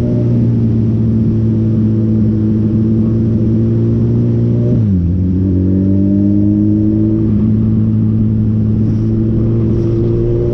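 Motorcycle engine running under way at steady revs; about five seconds in its pitch drops sharply as it shifts up a gear, then climbs slowly as it accelerates again.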